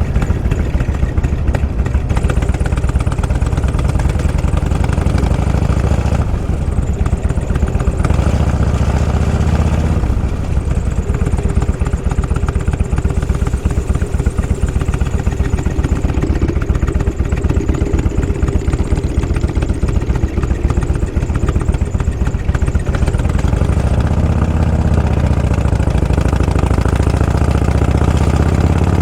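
Motorcycle engine running at low revs with a steady pulsing exhaust note. Near the end the revs rise as it accelerates.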